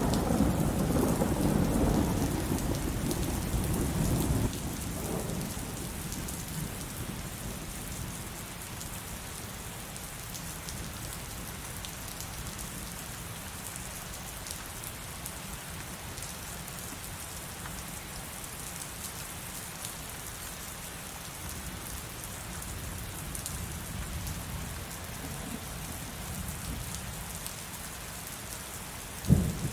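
Heavy rain pouring steadily. A low thunder rumble dies away over the first four or five seconds, and a sudden sharp crack of thunder comes just before the end.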